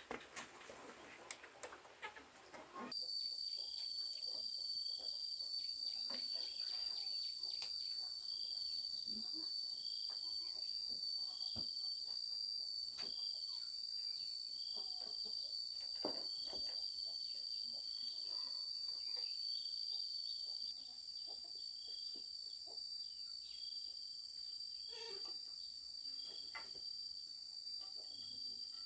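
Insect chorus: a steady high-pitched trill with a second, lower chirp repeating about once a second, plus scattered faint clicks. Before this starts, about three seconds in, there is a short stretch of rustling and clicking.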